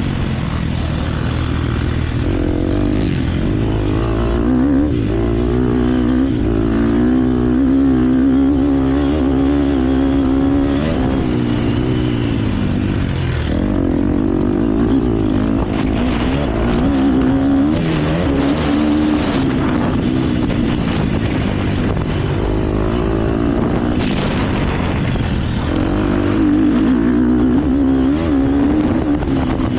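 KTM motocross bike engine under race throttle, its note climbing and dropping again and again as the rider opens and shuts the throttle and shifts gear, with a heavy rush of wind and track noise over it.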